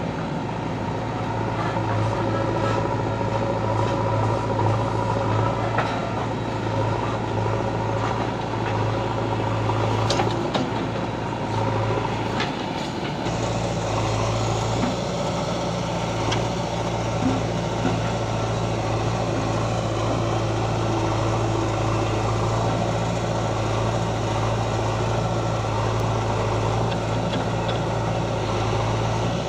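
Heavy diesel engine running steadily under work, with a few sharp knocks about a third of the way in and a slight change in its note a little before halfway.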